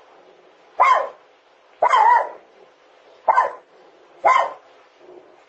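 A dog barking: four sharp barks, each about one to one and a half seconds after the last.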